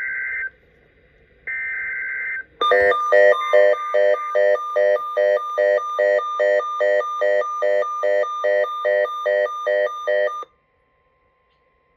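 Emergency Alert System digital header: two short bursts of high buzzing data tone, about a second each, with a gap between. Then a pulsing electronic alert tone beeps about twice a second for roughly eight seconds and cuts off, signalling the start of a severe thunderstorm watch broadcast on NOAA Weather Radio.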